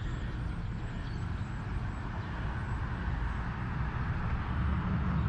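Steady low rumble of vehicle traffic on a town street, swelling slightly toward the end.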